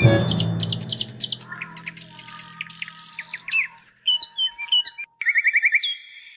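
Birds chirping: a string of short, quick tweets, over the tail of a music track that fades out in the first half. Near the end comes a rapid trill of repeated chirps.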